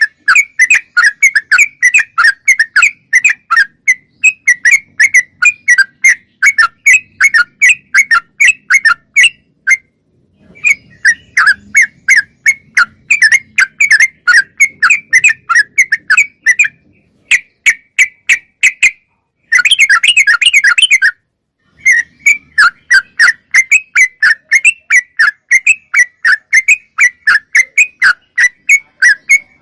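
Yellow-vented bulbul (trucukan) calling in a rapid, loud series of short whistled notes, about three to four a second, with a couple of brief pauses and a dense flurry of notes about two-thirds of the way through.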